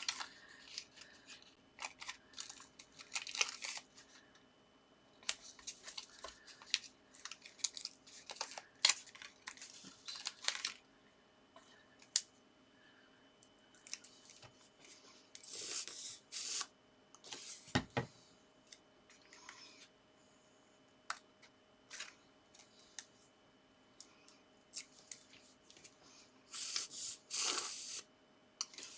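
Paper and card being handled at a craft table: scattered rustles, taps and clicks, with a few longer tearing-like rustles, as paper stars are stuck onto a card.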